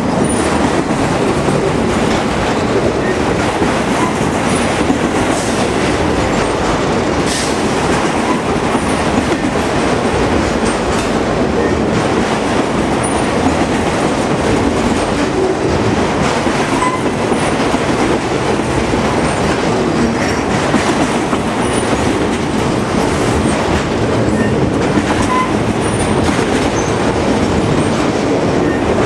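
Freight train of enclosed autorack cars rolling past close by: a steady rumble and clatter of steel wheels on the rails.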